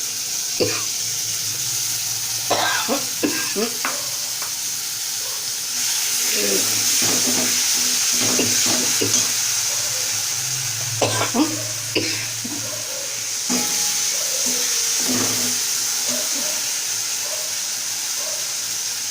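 Onion and spice paste with fresh tomato sizzling in hot oil in a pan while a spatula stirs and scrapes it, with repeated short scrapes and knocks of the spatula against the pan. This is the kasha stage, the masala being fried down before the chicken is added.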